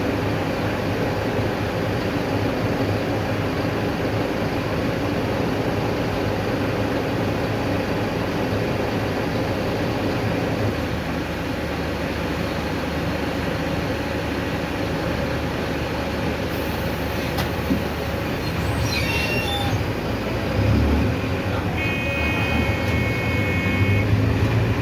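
Mercedes-Benz OF-1519 city bus diesel engine running steadily under way, with road noise. A brief squeak comes about two-thirds through, and a steady high electronic tone sounds for a couple of seconds near the end.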